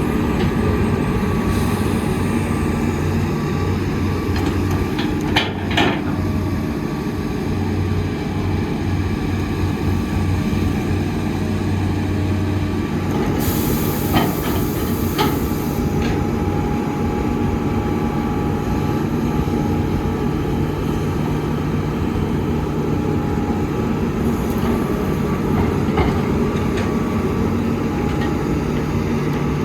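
Heavy earthmoving machinery's diesel engine running steadily with a deep rumble, with a few sharp metallic clanks. A brief hiss about halfway through.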